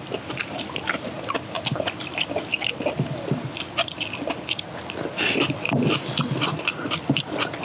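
Close-up eating sounds: several people chewing and crunching kimchi with rice, with wet smacking and irregular clicks of chopsticks against metal bowls.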